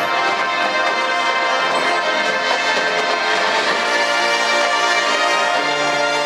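High school marching band playing its field show, with the brass section sounding full, sustained chords at a steady loud level.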